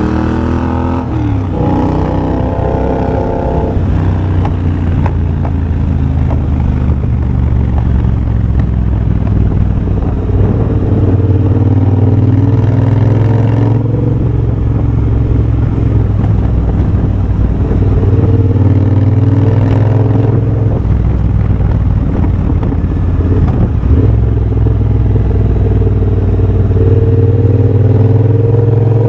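2023 Triumph Bobber's 1200 cc parallel-twin engine breathing through a de-catted TEC X-pipe and Motone shorty exhaust, heard on the move. The revs drop in the first few seconds, it runs fairly steadily through the middle, then climbs again near the end.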